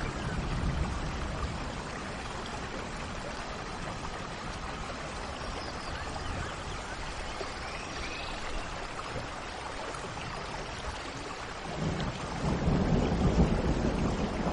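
Steady rain with faint bird chirps over it. A low roll of thunder builds about three-quarters of the way through.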